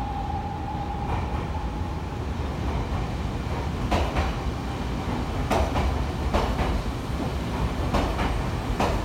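Nankai electric train rolling slowly through the station, its wheels clacking over rail joints and points in irregular pairs over a steady rumble. A steady mid-pitched tone fades out about two seconds in.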